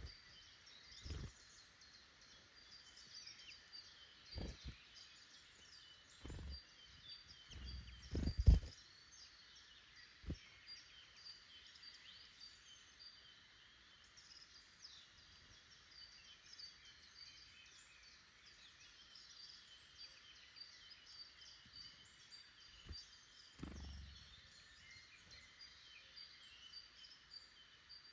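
A chorus of small woodland birds singing and calling, many short chirps and trills overlapping throughout. Several dull low thumps break in, the loudest about eight seconds in.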